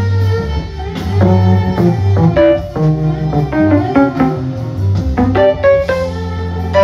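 Instrumental band music: a pitched melody line over bass guitar and drums.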